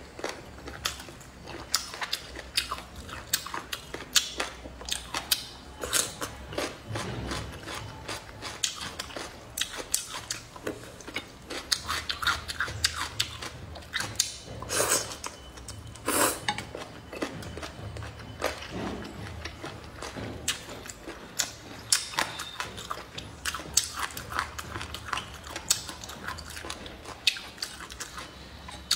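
Mouth sounds of a person eating boneless chicken feet and cucumber: steady chewing and biting with many sharp clicks and smacks, and a few louder ones about 6, 15 and 16 seconds in.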